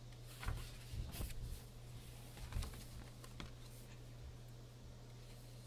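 Soft paper rustling and handling knocks as the pages of a coloring book are turned, a few separate rustles in the first three and a half seconds, over a steady low hum.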